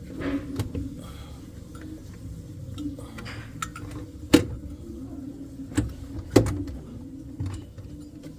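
Scattered sharp metallic clinks and knocks of tools and parts being handled, the loudest three coming about halfway through and later, over a steady low hum.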